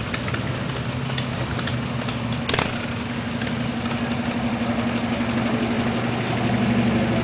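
A classic car's engine running at a low, steady idle as the car rolls slowly past, growing gradually louder as it nears. A single sharp click comes about two and a half seconds in.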